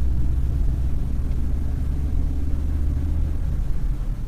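Steady low rumble of road vehicles, fading out near the end.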